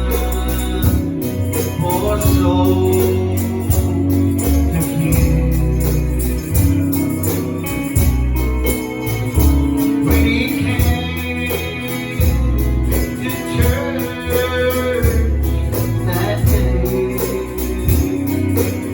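Live gospel music: voices singing over a band with a deep bass line, and a tambourine shaking in a steady beat.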